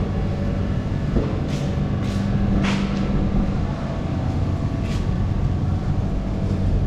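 A motor vehicle's engine running steadily at idle, with a few short high chirps over it about one and a half to five seconds in.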